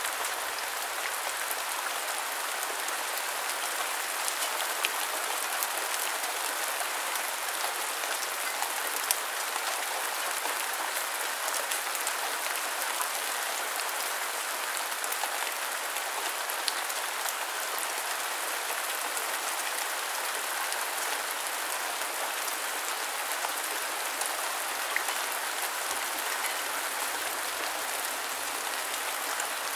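Steady rain falling: an even hiss, with scattered sharper ticks of individual drops.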